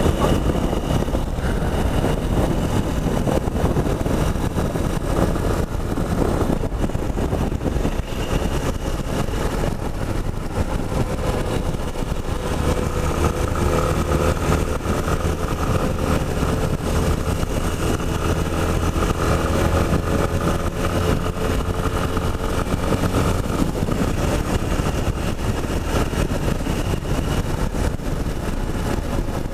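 Yamaha Ténéré 250's single-cylinder engine running as the motorcycle is ridden, with heavy wind rush on the microphone. From about 12 to 23 seconds in, the engine holds a steady note.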